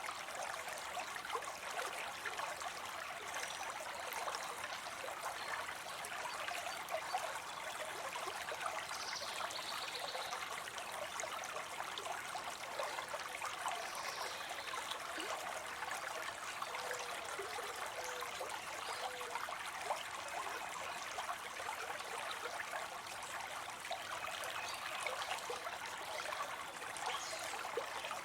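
Water spilling into a pond: a steady splash and trickle of falling water.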